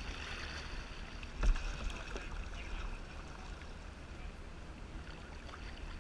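Water splashing and trickling around a kayak on the open ocean over a low steady rumble, with one sharp knock about one and a half seconds in.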